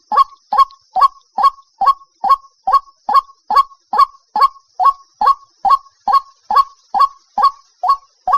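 White-breasted waterhen calling: a short, honking note repeated monotonously and evenly, about two to three times a second, with a faint steady high hiss underneath.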